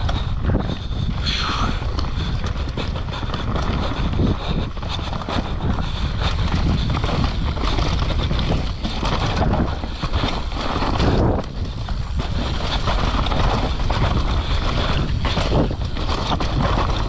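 Wind rushing over a helmet-mounted action camera's microphone as a mountain bike is ridden fast downhill, with the tyres on the dirt trail and the bike's frame and chain rattling over rough ground in constant small knocks.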